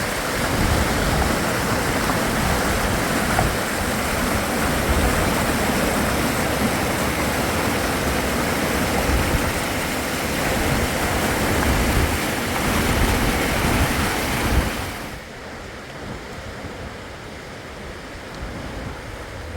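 Fast-flowing river water rushing steadily. About fifteen seconds in it suddenly becomes much quieter.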